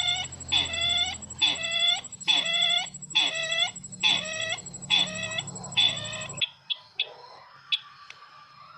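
Recorded bird lure call ('sisintar' call) played back for bird trapping: the same short call repeated about one and a half times a second. It cuts off suddenly about six and a half seconds in, leaving faint scattered chirps.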